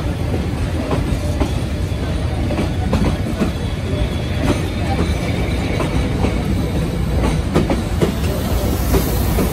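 Coaches of a Vietnamese passenger train rolling past close by: a steady low rumble with the wheels clicking over the rail joints.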